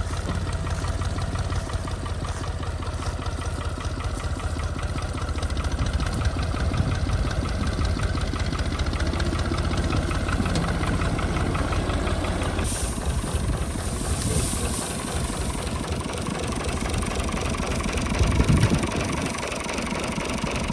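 Al-Ghazi 65 hp tractor's diesel engine running steadily. Partway through, its low rumble fades and a higher hiss comes in briefly, with a short louder surge near the end.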